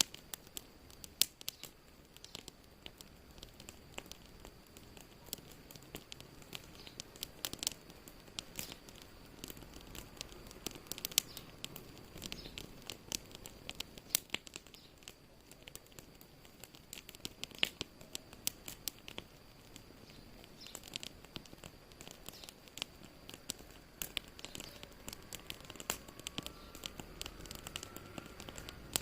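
Wood fire crackling, with many sharp irregular pops and snaps over a low steady hiss. A faint rising whistle comes in near the end.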